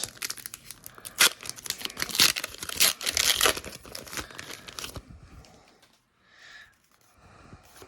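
A Pokémon card booster pack wrapper being torn open and crinkled by hand, a dense run of tearing and crinkling for about five seconds that then dies down to faint handling.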